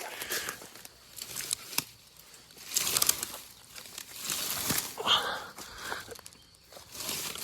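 Dry branches and leaf litter rustling, with a few sharp snaps, as firewood is gathered and broken by hand.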